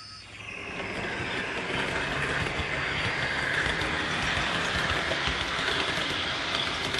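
HO scale model train running along the layout track, a steady rolling sound that grows louder over the first second and then holds.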